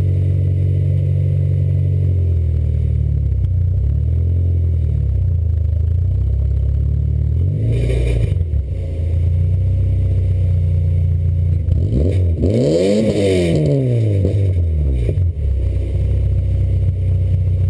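Cammed VW ABA 2.0 four-cylinder with a Magnaflow exhaust idling with a wavering pitch. It gets a short throttle blip about eight seconds in, and a rev up and back down a few seconds later.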